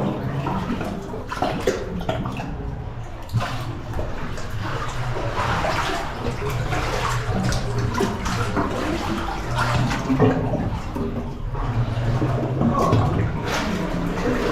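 Water sloshing and splashing unevenly as a person wades and crawls through shallow water.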